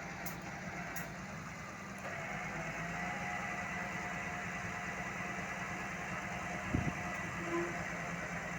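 Heavy diesel engine idling steadily, with a single knock about seven seconds in.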